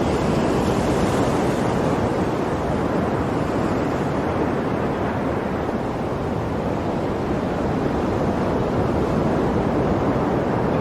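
Ocean waves breaking and washing in a continuous surf, with a slight swell in the first seconds and a gentle easing midway.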